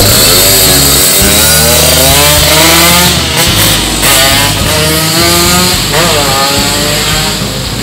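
Yamaha RX-King's two-stroke single-cylinder engine, with freshly reworked porting, revving on test: its pitch climbs and drops back several times, with one quick sharp blip about six seconds in.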